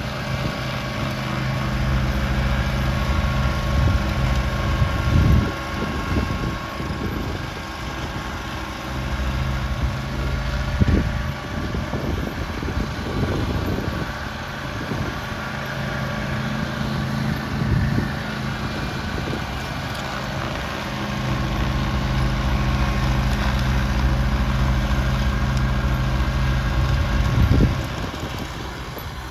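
Snowblower engine running steadily, with intermittent rushing surges and its note shifting a couple of times.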